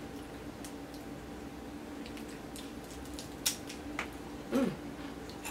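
Chewing and lip-smacking of people eating fried chicken: a few short wet smacks and clicks, the sharpest about three and a half seconds in, over a steady faint hum.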